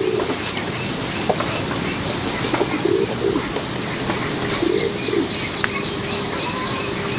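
A dove cooing in low, soft phrases, about three in a row a couple of seconds apart, over a steady background hiss.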